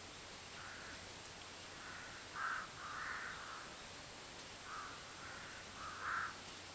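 A bird cawing: two runs of about three harsh calls each, the loudest about two and a half and six seconds in.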